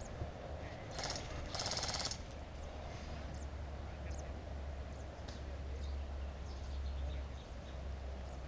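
Airsoft electric rifle firing two short full-auto bursts about a second in, the second a little longer, each a fast rattle of shots, over a steady low rumble.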